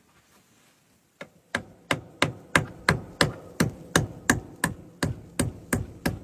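A quick, even series of about fifteen hard knocks, roughly three a second, like a hammer striking. They start about a second in.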